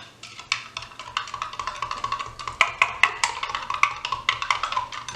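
A spoon stirring hot chocolate in a cup, clinking quickly and unevenly against the side with a short ringing tone on each tap.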